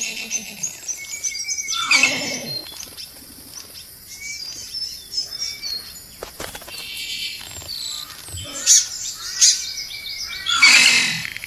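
Bowerbird calling: a run of short whistles and chirps, with two harsh, descending rasping calls, one about two seconds in and one near the end.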